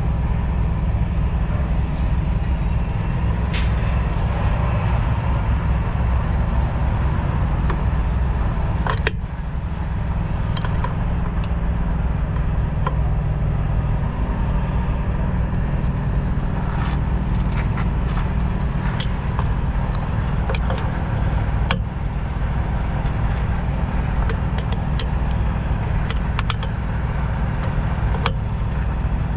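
Semi truck's diesel engine idling steadily, with scattered sharp clicks and taps of hand tools on metal.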